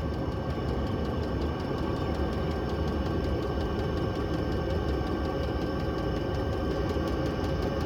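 Chinese diesel air heater running steadily at its highest setting: an even fan and burner hum with a few constant whining tones and faint, rapid, regular ticking.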